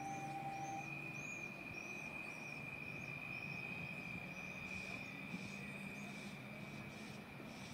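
Quiet background with a small animal's repeated high chirps, about two a second, fading after the first few seconds. A steady high-pitched whine and a faint low hum run underneath.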